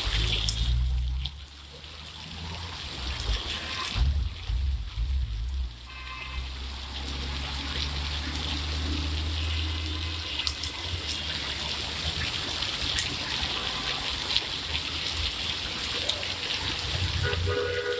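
Rain falling with water running and trickling, a steady hiss. A low rumble is heard near the start and again from about four to ten seconds in.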